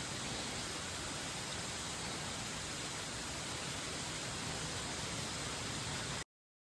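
Steady, even hiss with no distinct events, cutting off suddenly about six seconds in.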